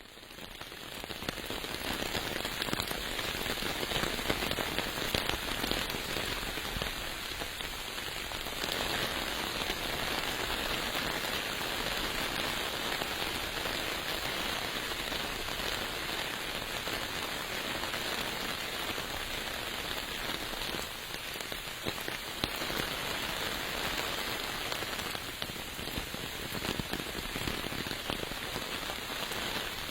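Steady rain falling, a dense even hiss full of fine drop ticks, fading in over about the first second.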